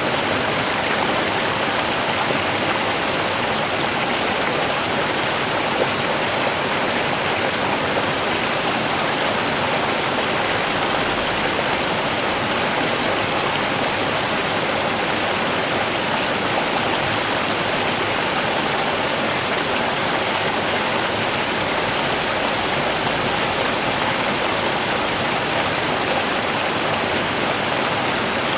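Slow river flowing, a steady, even rush of water without pauses or separate splashes.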